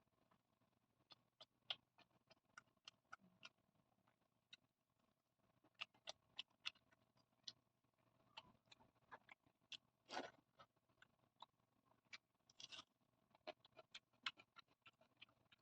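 Faint, close-miked eating sounds: irregular soft wet mouth clicks and smacks of chewing, with one longer, louder noisy sound about two-thirds of the way through and another short one soon after.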